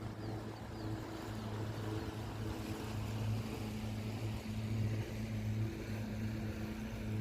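Boat's outboard motor running steadily under way, with a constant hiss of wind and water over its low hum.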